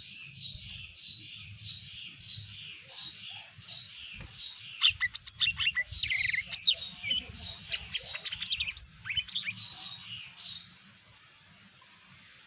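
Lesser green leafbird (cucak ijo mini) singing. It opens with a run of repeated falling notes, about two a second, then breaks into a louder burst of rapid, varied chirps and whistles about five seconds in, which stops about two seconds before the end.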